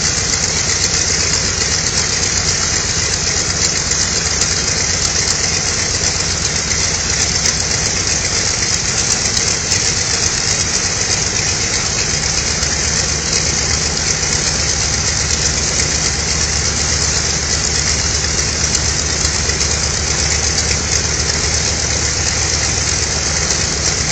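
Mitsubishi A6M Zero fighter's Nakajima Sakae 14-cylinder radial engine running steadily on the ground with its propeller turning, a loud, even drone with a strong hiss over it.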